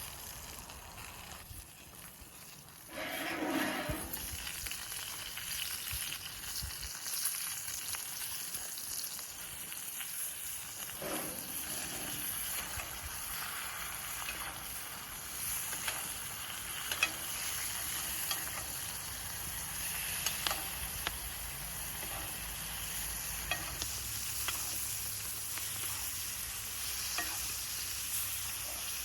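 Lamb chops frying in butter and oil in a cast iron skillet over a wood fire. A steady sizzle is dotted with sharp pops and crackles, and it gets louder about three seconds in.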